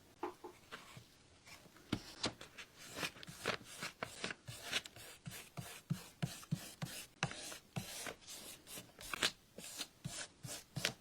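Decoupage paper crackling and rustling as hands press and rub it down onto a sign board over fresh adhesive: a quiet, irregular run of short crinkles and rubs, several a second.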